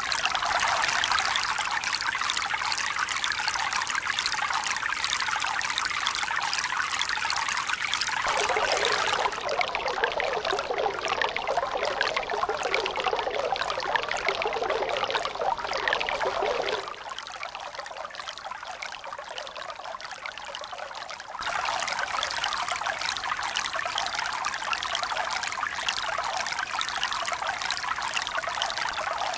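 Running water trickling and pouring steadily, with no rise and fall of waves. The sound changes abruptly several times: about eight seconds in it loses its brightest hiss, it turns quieter and duller from about seventeen to twenty-one seconds, then the first sound returns.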